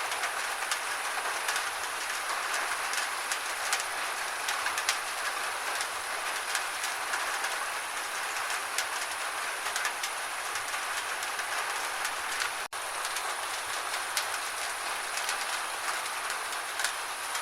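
Gentle rain falling steadily, with many individual drops ticking through the even hiss. The sound cuts out for a split second about three-quarters of the way through.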